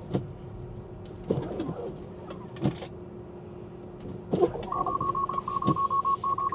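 Tesla Model 3's cabin warning chime: rapid beeping at one pitch in three quick groups, starting past the middle, over a steady low cabin hum. It is the take-over alert as Full Self-Driving disengages on the slippery road.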